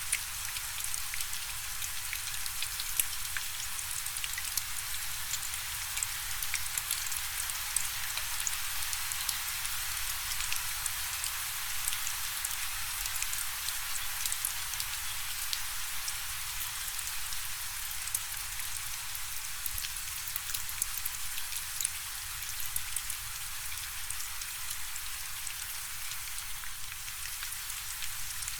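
Steady rain falling, an even hiss full of fine drop ticks hitting a surface.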